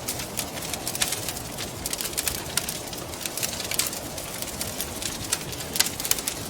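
Wood fire crackling, with many sharp snaps and pops at uneven intervals, over a steady rushing wind.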